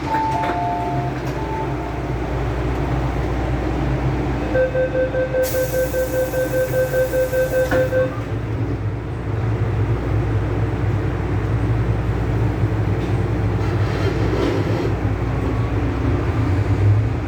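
MTR M-Train at a station stop: the end of the two-tone door chime, then rapid door-closing warning beeps, about four a second, over a hiss of air as the doors shut. From about 9 seconds in, the train pulls away with a steady low running noise from its motors and wheels.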